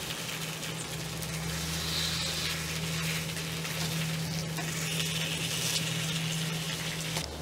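Banh khot batter and shrimp frying in a multi-well pancake pan, a steady sizzle as the little rice-flour pancakes crisp up. A steady low hum runs underneath from about a second in until just before the end.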